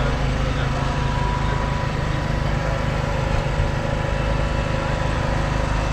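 Kubota M5-112 tractor's 3.8-litre four-cylinder diesel engine idling steadily.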